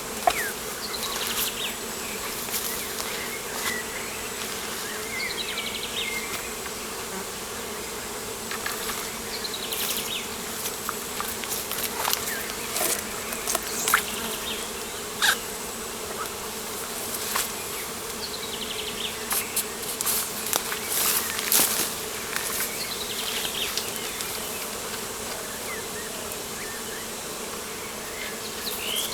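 Steady buzzing of insects, with a bird repeating a short song phrase that falls in pitch every few seconds, and scattered sharp ticks.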